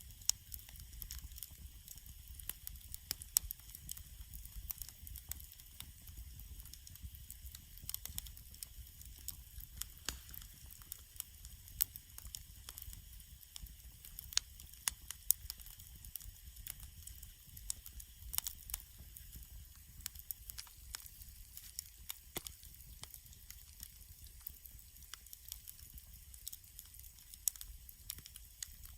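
Wood campfire crackling, with frequent irregular sharp pops and snaps over a soft steady hiss.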